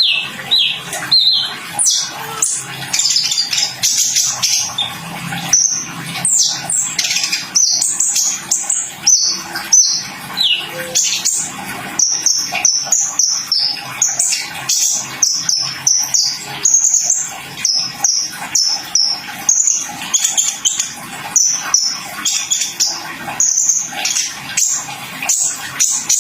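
Kolibri ninja (konin, the brown-throated sunbird) singing a fast, unbroken string of short high chirps and slurred notes.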